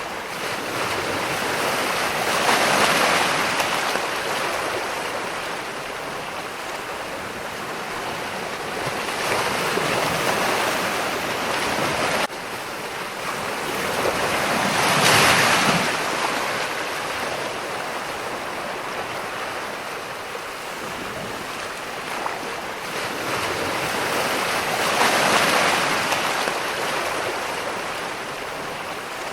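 Ocean waves breaking and washing on a shore, the surf swelling to a peak four times and ebbing between. The sound drops suddenly about twelve seconds in.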